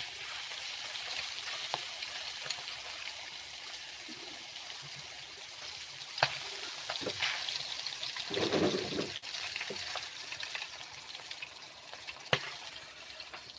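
Flour-coated chicken intestine frying in oil in a pan, sizzling steadily, with a few sharp clicks.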